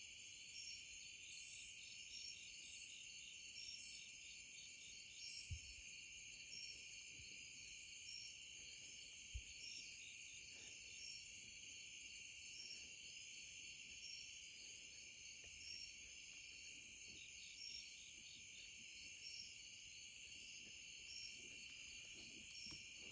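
Faint chorus of evening insects, crickets trilling steadily in a pulsing rhythm, with a few short higher buzzes in the first few seconds.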